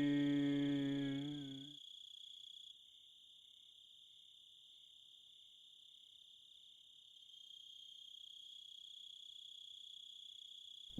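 A cartoon voice holds its last drawn-out note and fades out about two seconds in. After that comes faint, steady cricket chirring, a continuous high trill that swells slightly past the middle.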